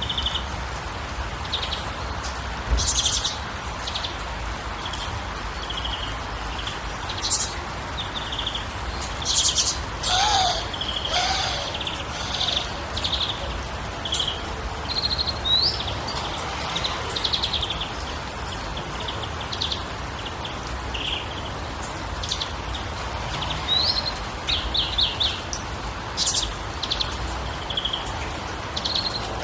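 Songbirds chirping and calling in short high notes and quick trills over a steady background hiss, with a lower two-note gliding call about ten seconds in.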